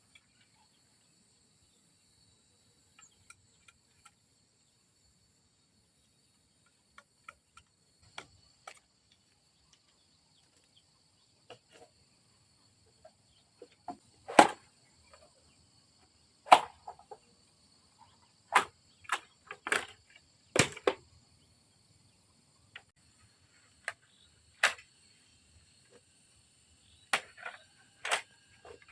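Sharp, irregular knocks, sparse at first and then louder and more frequent in the second half, about a dozen in all. Behind them is a steady high-pitched chirring of insects.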